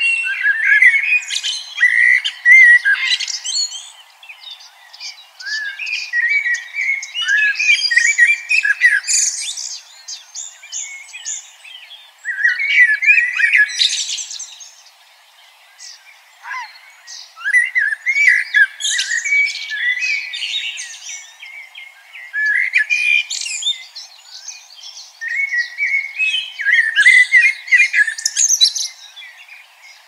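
A songbird singing in repeated bouts of rapid, varied warbling and chirping, about six bouts each a few seconds long, separated by short pauses.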